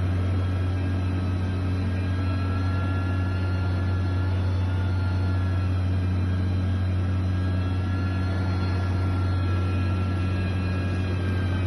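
Diesel engine of heavy construction machinery running steadily: a constant low drone with a faint high whine that drifts slightly in pitch.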